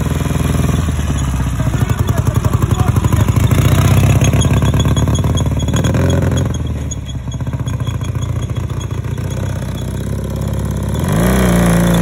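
Dnepr MV-650 army sidecar motorcycle's flat-twin engine running, picking up revs in the first few seconds and easing off, then changing pitch near the end. A faint repeated high squeak from the sidecar wheel runs under the engine.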